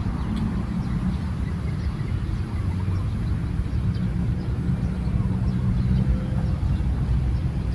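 A steady low rumble, with faint short bird chirps above it.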